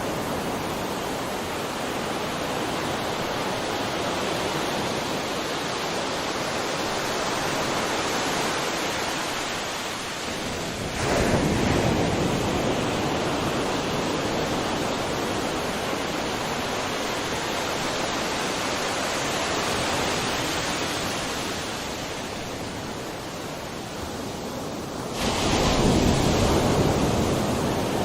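Sea surf: a continuous hiss of waves with two louder waves breaking, one about eleven seconds in and another near the end, each washing out over a few seconds.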